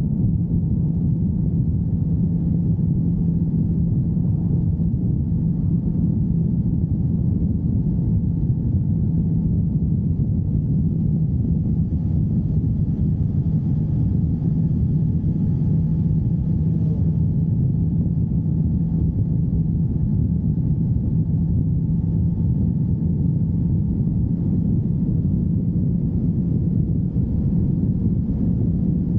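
Motorcycle engine running steadily, a low, even drone with a constant hum.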